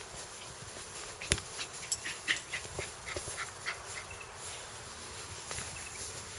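Quiet dog sounds: a few short, high squeaks bunched together between about two and four seconds in, among scattered clicks. There is no sustained growl.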